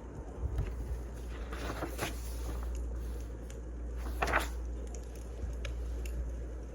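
Wood fire crackling over a steady low rumble, with scattered small pops and two louder crackles about two and four seconds in.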